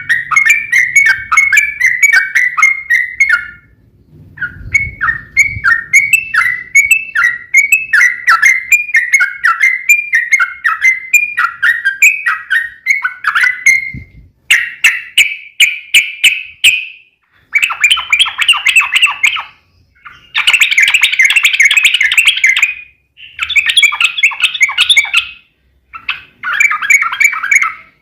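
Yellow-vented bulbul (trucukan) singing: a long run of quick repeated chirping notes, then several dense chattering bursts a couple of seconds long with short pauses between them.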